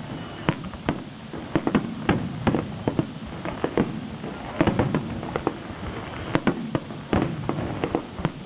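Fireworks bursting in a rapid, irregular string of bangs and crackles, with a few louder reports in the second half.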